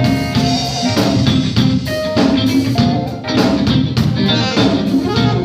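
Live gospel band playing the instrumental intro of a song: drum kit keeping a steady beat under guitar and keyboard.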